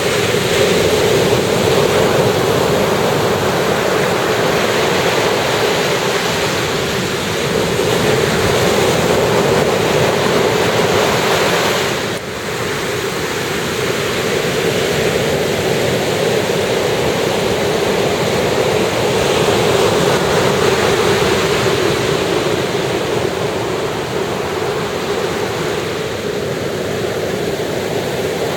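Ocean surf washing onto a beach: a steady rush that swells and eases every several seconds, with a brief drop about twelve seconds in.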